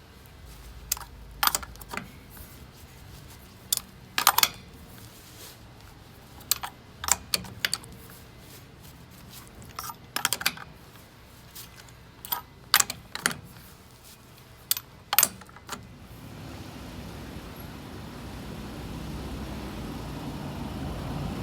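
Irregular sharp clicks and clinks of small hard objects being handled for about fifteen seconds. Then a steady rushing noise swells for about five seconds and cuts off near the end.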